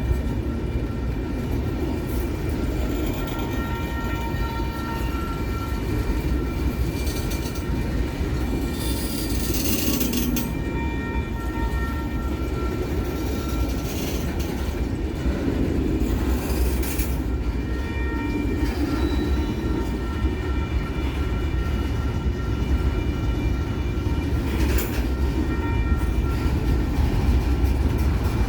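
Freight train cars rolling steadily past with a deep, continuous rumble. Thin wheel squeals come and go throughout, and there are a few sharp clanks.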